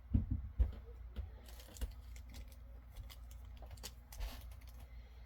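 Light handling noises: scattered small clicks and brief rustles as pins and their plastic packaging are handled, with a couple of sharper clicks near the start over a low steady hum.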